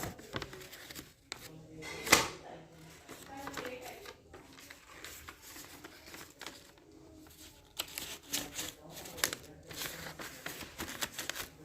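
Paper being handled, rustling and crinkling, with short sharp crackles and one loud snap about two seconds in; a faint voice murmurs in the first few seconds.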